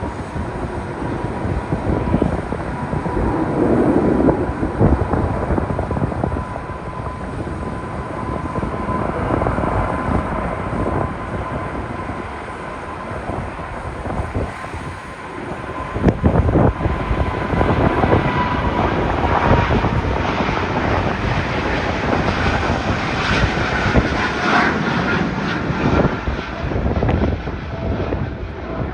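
Jet engines of a Boeing 747-8 on departure: a steady rushing noise with a thin whine that sinks slightly in pitch past the middle.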